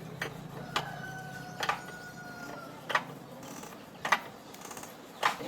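Sharp metallic clicks and knocks, about one a second, from hand-tool work on tractor parts, with a faint steady whine partway through.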